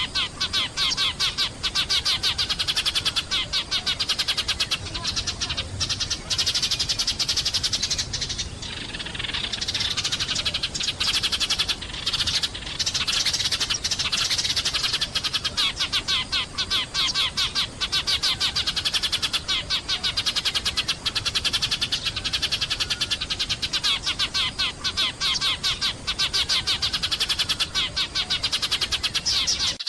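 A flock of sparrows chirping and chattering continuously, many fast overlapping chirps, with brief lulls about eight and twelve seconds in.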